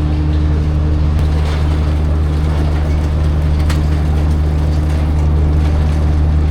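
A steady low engine drone that holds one pitch throughout, with no rise or fall.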